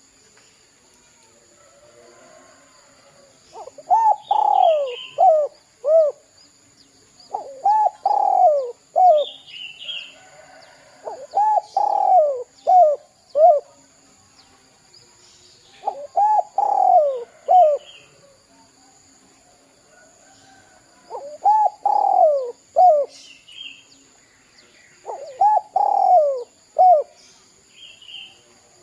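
Spotted dove (derkuku) cooing in the 'kuk 2' style: six phrases about four seconds apart, each a long falling coo followed by two short coos. A few faint high chirps of a small bird fall between the phrases.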